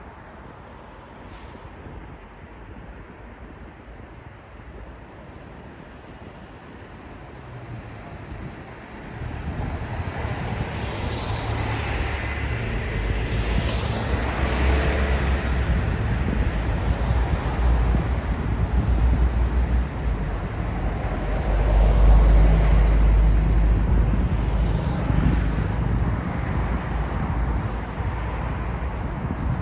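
City street traffic: quiet road noise at first, then about nine seconds in a heavy vehicle's deep engine rumble comes in close and stays loud, with a hiss of noise above it.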